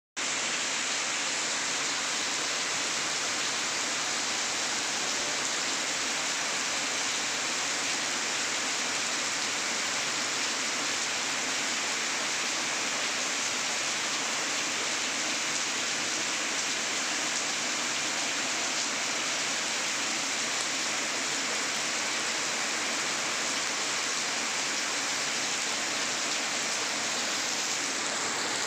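Heavy rain falling onto standing water, a steady dense splashing of drops on the surface.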